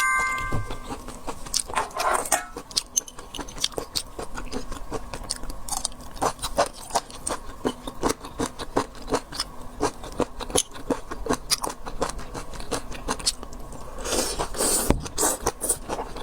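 Close-miked eating of seafood: chewing and crunching with many sharp, irregular clicks and mouth smacks, and a louder, noisier stretch about fourteen seconds in.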